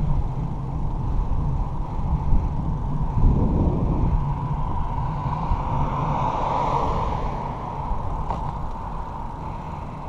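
Steady low rumble of road and wind noise while riding a bicycle, swelling about six to seven seconds in and easing off toward the end.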